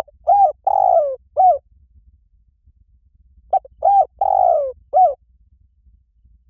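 Spotted dove cooing: two phrases of four notes each, about three and a half seconds apart. In each phrase the third note is longest and slides down in pitch.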